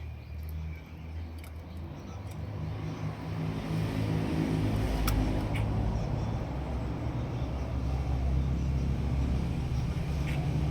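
A steady low engine hum, growing louder about four seconds in, with a few faint ticks over it.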